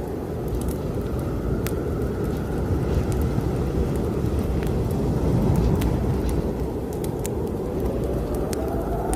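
Snowstorm wind blowing with a deep, steady rumble, a whistle rising near the end, and scattered crackles of a wood fire in a fireplace.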